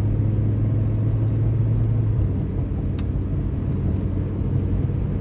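Pickup truck's engine and road noise heard from inside the cab while driving: a steady low drone whose hum eases slightly lower about two seconds in, with one faint click about three seconds in.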